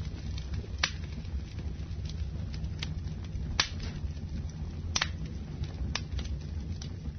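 Wood fire burning in a fireplace, crackling with sharp pops roughly once a second over a steady low rumble; the loudest pop comes about halfway through.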